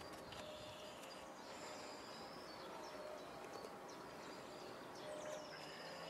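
Faint songbird calls, high chirps and two drawn-out falling whistles, about a second and a half in and near the end, over steady outdoor background noise.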